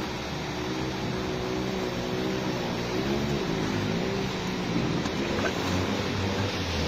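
Rushing storm floodwater, a steady loud roar, with a motor running underneath whose pitch wavers up and down.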